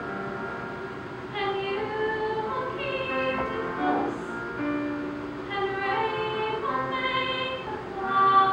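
A female voice singing a melody with held notes over instrumental accompaniment.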